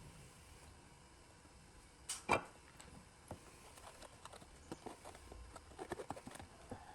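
Two sharp knocks a little over two seconds in, the second the loudest, followed by scattered light clicks and taps.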